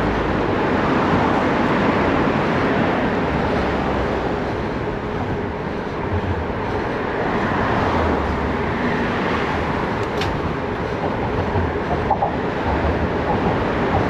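Steady riding noise from a gravel bike: wind on the microphone and tyre rumble, with traffic around, and gusty low rumbles in the second half. A short sharp click about ten seconds in.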